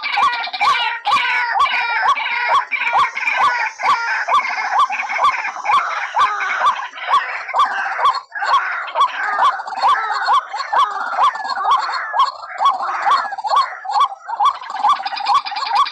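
White-breasted waterhens calling, a lure recording of their repeated harsh notes, about two to three a second, with several calls overlapping.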